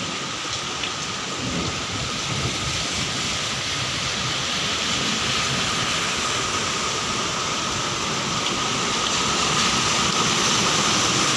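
Heavy rain pouring steadily in a storm, growing a little louder near the end.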